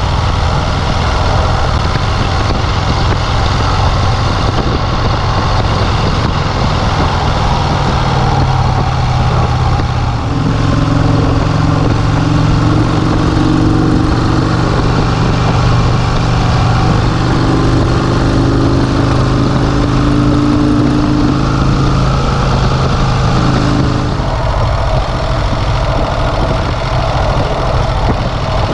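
1951 Vincent Rapide's V-twin engine running on the road, with heavy wind noise on the microphone. The engine note is clearest and holds steady from about ten seconds in, then sinks back into the wind noise about two-thirds of the way through.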